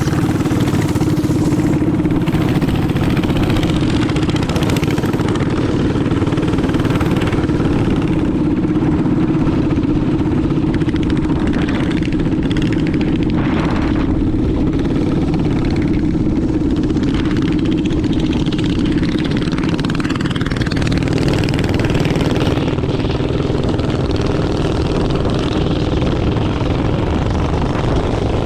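Small minibike engine running at a steady, unchanging pitch.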